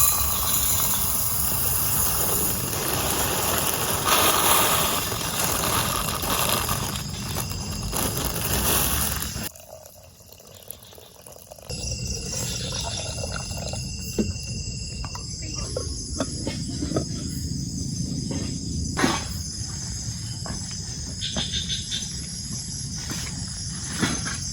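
Forest ambience: a dense steady hiss for about nine seconds, a sudden drop, then insects shrilling steadily with scattered sharp clicks and crackles.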